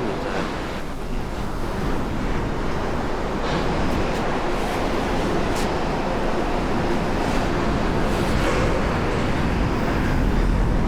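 Strong wind rushing steadily, with a heavy low rumble from the gusts buffeting the microphone.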